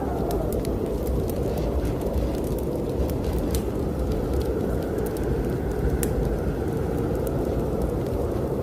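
Strong snowstorm wind blowing steadily, swelling and easing slowly, with a wood fire crackling in a fireplace: scattered sharp pops and snaps over the wind.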